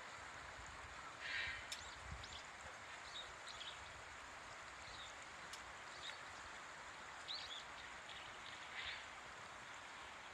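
Steady faint rush of flowing water, with several brief, high bird calls scattered through it, the clearest about a second in and again near the end.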